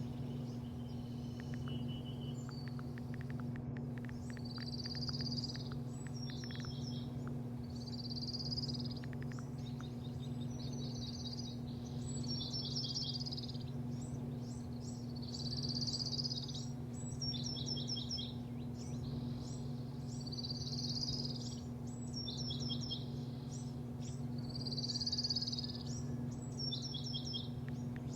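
A songbird singing the same short phrase over and over, about every four seconds: a brief buzzy note followed by a quick run of descending chirps. A steady low machine hum runs underneath.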